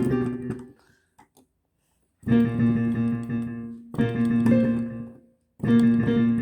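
Piano playing: the notes die away within the first second, then after a short silence three chords are struck about every second and a half, each held and left to fade.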